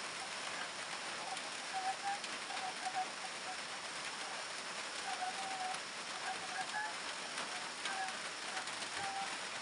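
Steady rain falling, an even hiss, with a bird giving short repeated calls through it.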